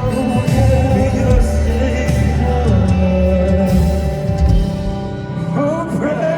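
Live band music at a concert, with sung vocal notes held over the band.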